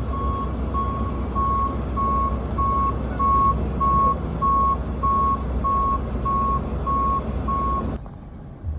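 Truck reversing alarm beeping steadily, about two beeps a second, over a low engine rumble; it cuts off suddenly near the end.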